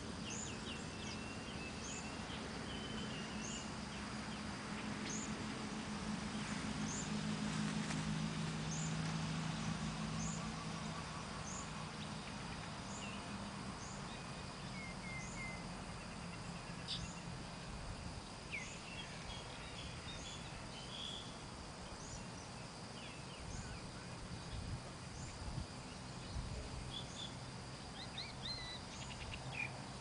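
Small birds chirping: a short high chirp repeats about once a second, with scattered other calls between. A steady thin high whine runs underneath, and a low hum fades out after about twelve seconds.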